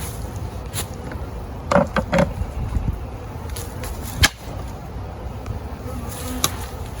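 Beehive equipment being handled during an inspection: a few quick knocks about two seconds in and a sharp click a little later, with another near the end, over a steady low rumble of wind on the microphone.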